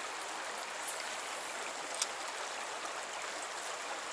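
Steady rushing of a flowing stream, with one small click about two seconds in.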